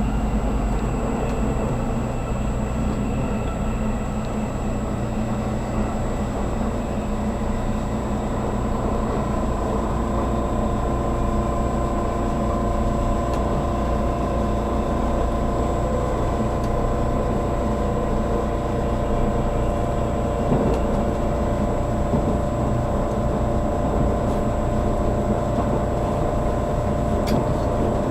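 Inside a JR Kyushu 783 series limited express car in motion: a steady rumble of wheels on the rails with a steady whine over it.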